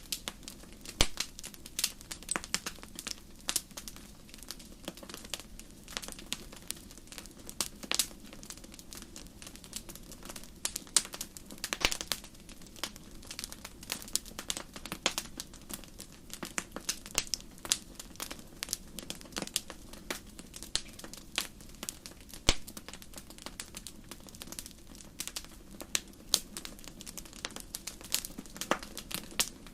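Campfire crackling: wood burning with irregular sharp pops and snaps, several a second, over a steady low hiss of the flames.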